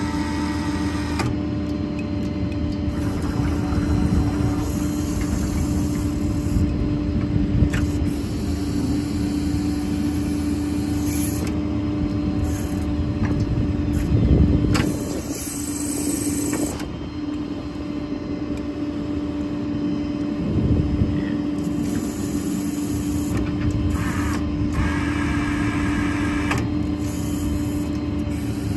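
Service truck's 6.7 Power Stroke diesel running while its IMT hydraulic crane is operated, with a steady hum under it. It swells briefly about halfway through, then drops a little as the crane's functions change.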